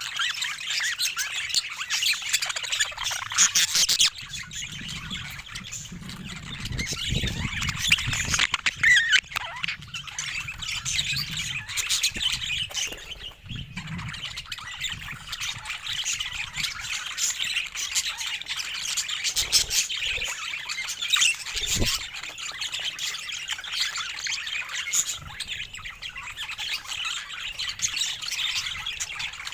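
Budgerigars chirping and chattering without pause.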